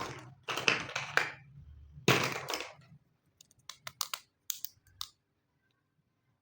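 Small plastic pieces of a miniature toy kitchen set being handled: three rustling, scraping bursts, then a run of light, sharp plastic clicks that stops about five seconds in.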